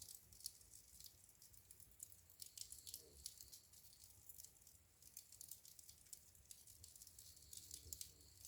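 Wood fire crackling in a fireplace: a faint, irregular run of small snaps and pops.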